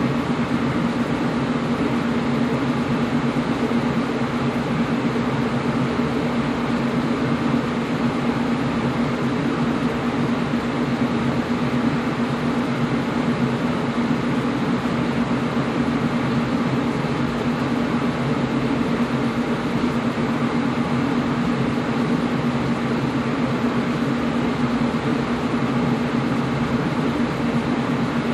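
Air conditioner running steadily: an even whooshing hiss over a constant low hum.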